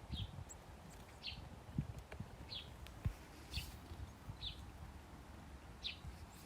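A small bird chirping at a feeder: one short high call repeated about once a second, six times, with soft low thumps and rustling underneath.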